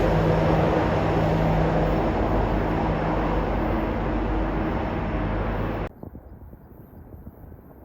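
Freight train running past with a steady low diesel engine drone over a dense rumble, slowly fading. The sound cuts off abruptly about six seconds in, leaving only faint background noise.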